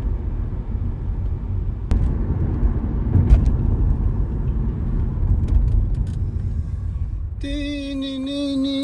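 Car driving on the road: a steady low rumble of tyres and engine with a few faint knocks. Near the end a held musical tone with its overtones comes in over it.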